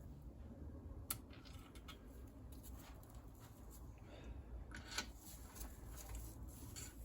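Quiet room tone with a few faint, sharp clicks, one about a second in and another around five seconds in.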